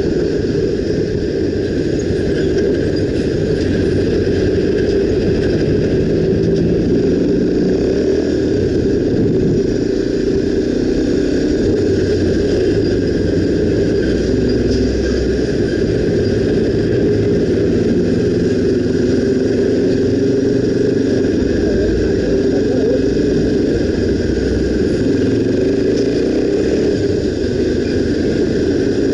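Honda XR 250 Tornado motorcycle's single-cylinder four-stroke engine running steadily at a constant level, its pitch drifting slightly up and down.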